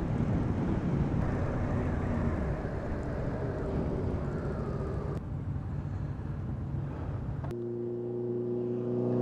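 Motorcycle riding noise: engine and wind rush as heard from the rider's camera, with a wavering engine note. About seven and a half seconds in it changes abruptly to a steady drone with several clear held tones, which grows louder near the end.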